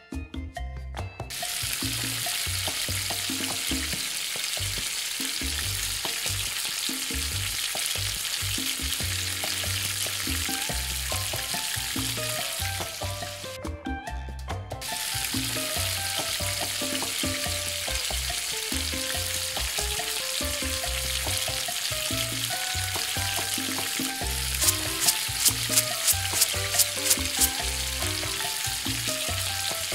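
Food sizzling in a miniature frying pan over light background music; the sizzle drops out for about a second near the middle, and near the end there is a quick run of about ten sharp taps.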